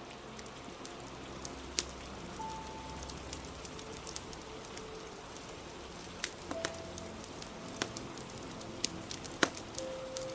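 A fire crackling in sharp, irregular pops over a steady hiss of rain, with soft music playing held notes underneath. The loudest pops come about two seconds in and near the end.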